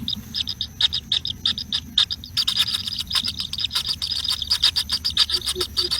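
Nestling birds chirping: rapid, repeated high-pitched cheeps, several a second, growing denser about two and a half seconds in.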